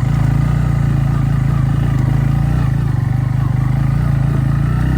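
Motorcycle engine running steadily under way, with an even low drone.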